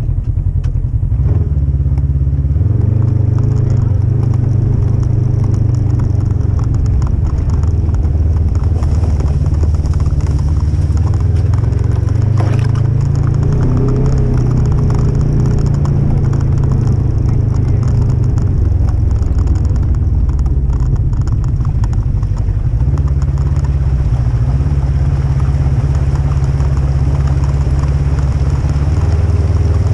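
Polaris RZR 1000 side-by-side engine running under way, a steady heavy drone with its note rising and easing off now and then, including a short rev about twelve seconds in.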